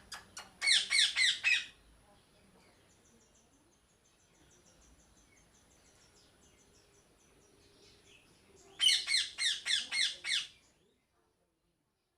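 Parrot giving two short bursts of rapid, harsh squawking calls, one near the start and one about nine seconds in, each lasting about a second and a half. A faint, high, rapid twittering runs between them, and all sound stops about eleven seconds in.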